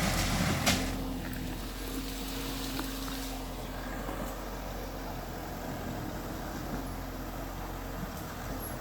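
A heavy diesel engine running steadily at low revs, with a single sharp knock a little under a second in.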